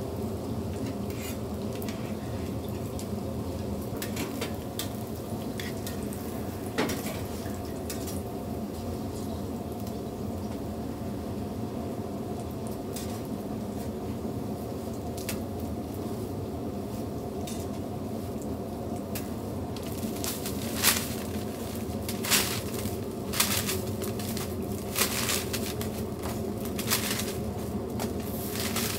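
Hotteok frying in oil on a flat griddle with a steady sizzle, while metal tongs clink against the griddle and the wire draining rack. The clinks come scattered at first, then as a quick run of sharp clicks over the last ten seconds.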